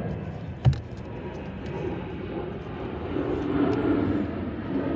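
A steady low rumble that swells in the second half, with one sharp knock a little under a second in.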